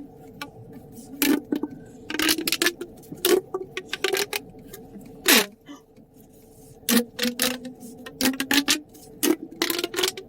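Irregular sharp clicks and clacks, often coming in quick clusters of two or three, over a steady low hum.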